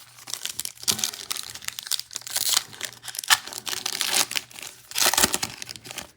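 Foil trading-card pack wrapper being torn open and crumpled, a run of irregular crinkling and crackling rustles.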